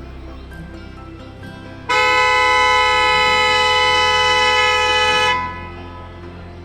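A vehicle horn sounds one steady blast of about three and a half seconds, starting about two seconds in, over quiet background music.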